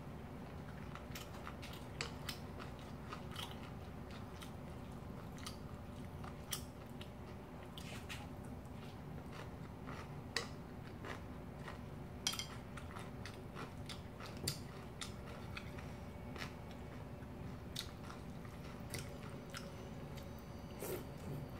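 Close-up eating sounds: chewing with scattered wet mouth clicks and smacks, and now and then a metal spoon or chopsticks clicking against a glass bowl of cold noodle soup, over a faint steady hum.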